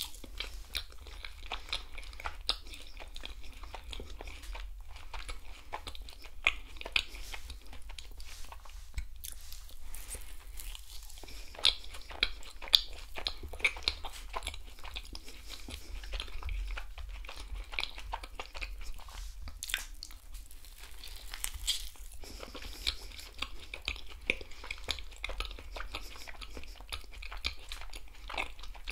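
Close-miked mouth sounds of a person biting and chewing a dark-chocolate-glazed eclair: a dense, irregular run of small wet clicks.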